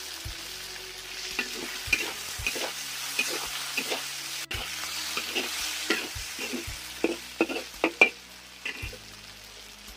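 Stir-fry sizzling in a pan, with a spatula scraping and knocking against it at an uneven pace, busiest near the end, as walking catfish, sour bamboo shoots and freshly added green chillies are tossed over the heat.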